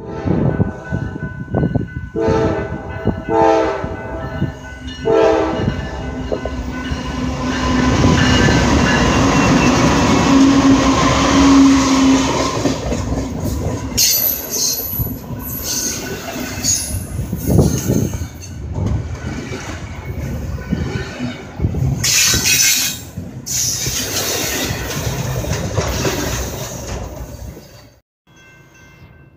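Norfolk Southern diesel freight locomotives blowing their air horn in a string of blasts for a grade crossing over the first six seconds, then the engines passing close by. Double-stack container cars follow, rumbling and clacking over the rail joints, until the sound cuts off near the end.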